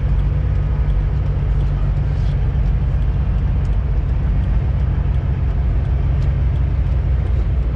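Semi-truck diesel engine running steadily, a loud, even low rumble heard from inside the cab while driving.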